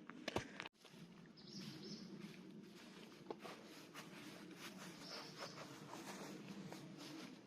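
Faint outdoor ambience: a low steady hum with many small ticks and crackles, a sharp knock just after the start, and two brief high chirps.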